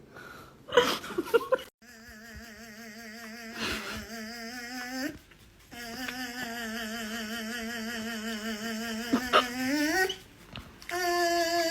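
A dog howling: two long, wavering howls held at a steady pitch, the second rising at its end, with a few clicks just before.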